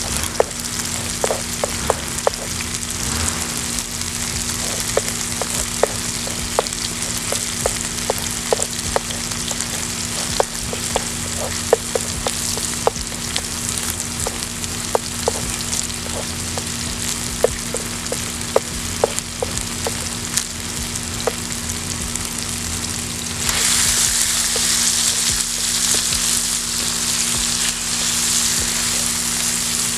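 Chicken, peppers and eggs sizzling in oil in a frying pan over a wood fire, with a spatula clicking and scraping against the pan many times as the food is stirred. About three-quarters of the way through, the sizzle grows louder.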